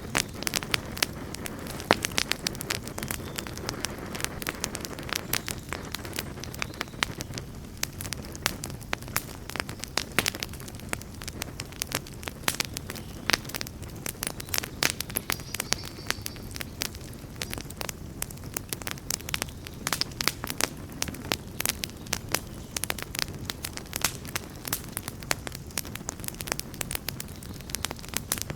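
Campfire burning with dense, irregular crackling and sharp pops over a low rumble of flames.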